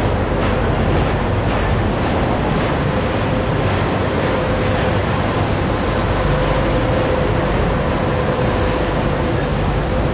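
Trailer-on-flatcar freight train rolling past close by: a loud, steady rush and rumble of steel wheels on rail, with a faint steady whine running through it.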